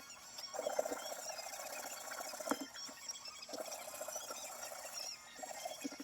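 Wood fire crackling in a small stainless steel wood stove: irregular snaps and clicks, with a sharper pop about two and a half seconds in.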